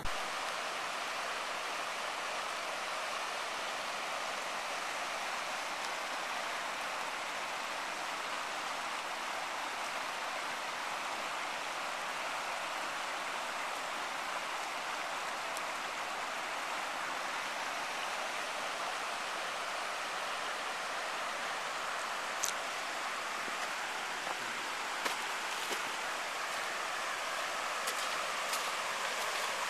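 Swollen floodwater rushing steadily where two streams meet, an even, unbroken rush of water. A few faint clicks come through near the end.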